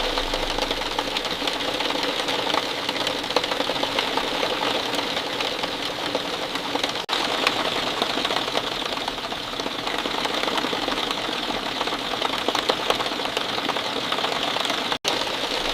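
Steady rain: a dense, even patter of many small drops striking a surface, briefly cutting out for an instant about seven seconds in.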